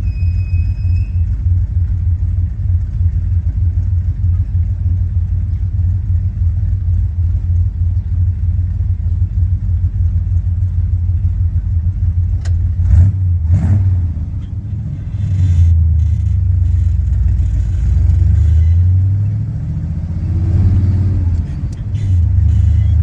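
Old hot rod's engine and exhaust, a steady low drone while cruising. In the last third the engine note drops and climbs several times, with one rev rising about 20 seconds in.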